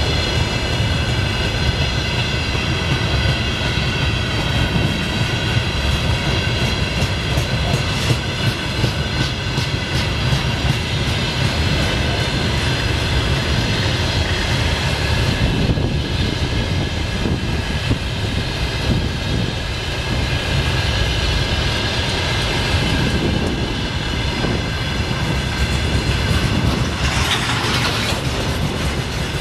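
Freight train of railway tank wagons rolling past close by: a steady rumble of steel wheels on the rails with a rapid clickety-clack and several steady high ringing tones over it.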